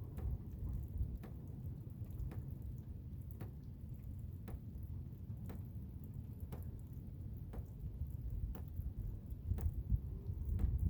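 Blizzard wind, a steady low rumble with gusts, and a faint sharp tick repeating evenly about once a second.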